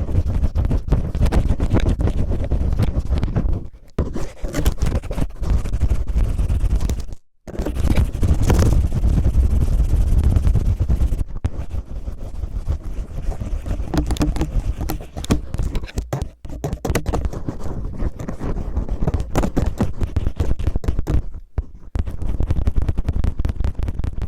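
Cellophane crinkled and rubbed roughly against the microphone, ear-cleaning style: dense crackling and rustling with a heavy low rumble, stopping briefly a few times.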